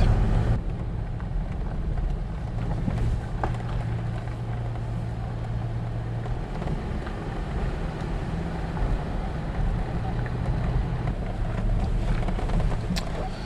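Vehicle engine running steadily at low speed with road noise, a low, even hum, as the vehicle is driven over to a parking spot.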